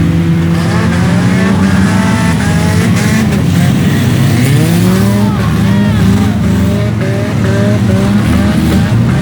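Several demolition derby cars' engines revving loudly at once, their pitches rising and falling in overlapping sweeps.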